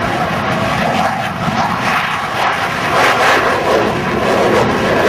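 Jet engine noise of USAF Thunderbirds F-16 fighters flying past, building to its loudest about three seconds in.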